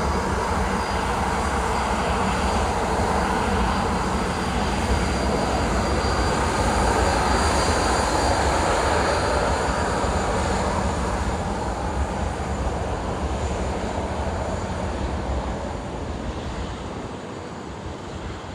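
Jet airliner engine noise: a steady, broad rush that slowly fades as the aircraft moves away.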